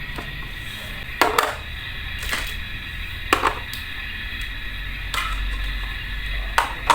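Light, sharp knocks and clicks of small miniature kitchen utensils being handled, about eight of them at uneven intervals, over a steady background hiss.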